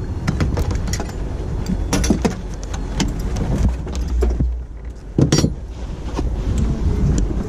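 Metal clicks and jangling of a racing seat harness being unbuckled, over wind buffeting the microphone, with a heavier knock about five seconds in.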